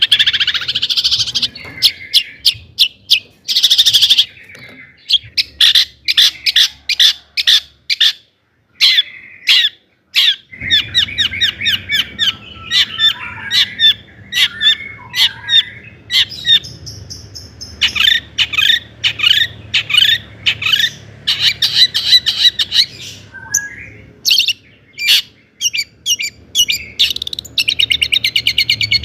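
Long-tailed shrike (cendet) singing a full, varied song of rapid chattering trills and sharp repeated notes, breaking off briefly about eight seconds in before carrying on.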